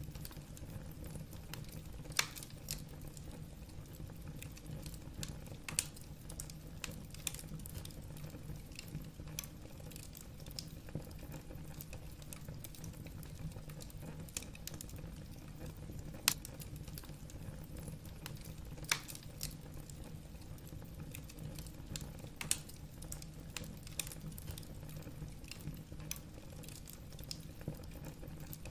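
Wood fire burning in a fireplace, the logs crackling with irregular small pops and a few sharper snaps over a low, steady fire rumble.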